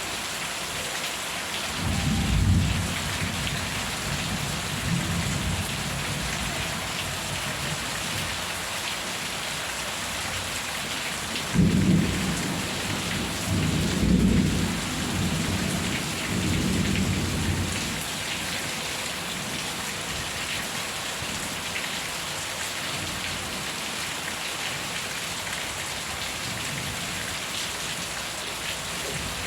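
Steady heavy rain with rolls of thunder: a low rumble about two seconds in, then a longer, louder series of rumbles from about twelve to eighteen seconds.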